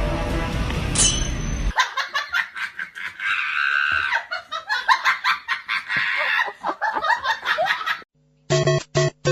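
Background music until about two seconds in, then laughter in quick, choppy bursts, followed near the end by a new tune of short, clipped notes.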